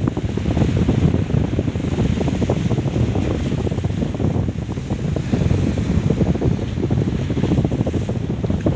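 Strong wind blowing across the microphone: a loud, uneven rumble.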